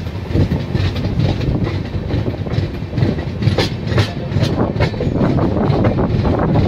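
Passenger train coach running along the track, heard from its open doorway: a steady low rumble of wheels on rail with a rapid, uneven clatter of wheel clicks over the track.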